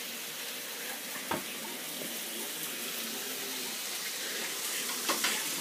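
Beef sirloin strips and onions sizzling in a frying pan, a steady hiss, with a couple of brief clicks.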